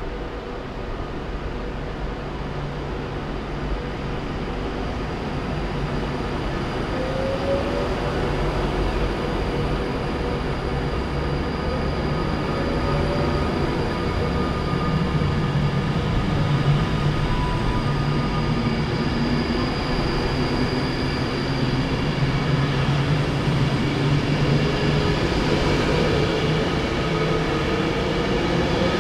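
Class 390 Pendolino electric train moving slowly along the platform: a steady low rumble with electric whines that rise in pitch a few times, slowly growing louder.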